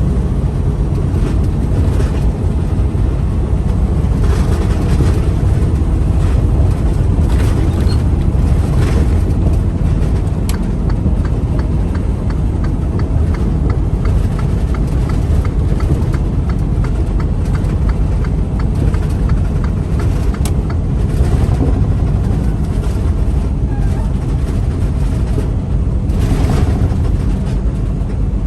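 Freightliner semi truck cab noise while driving: a steady low engine and road rumble, with a few short knocks spread through.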